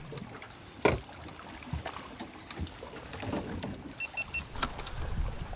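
Small anchored boat in wind-chopped water: water slapping against the hull, with scattered knocks and one sharper knock about a second in. Three short high beeps sound near the end.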